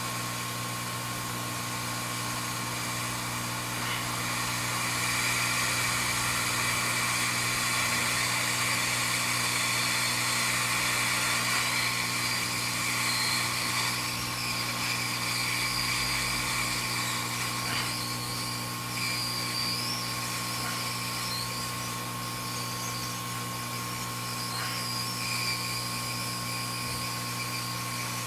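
Hot air rework station blowing on a logic board chip: a steady airy hiss with a faint wavering whine, louder from about four seconds in until about fourteen seconds, over a steady electrical hum.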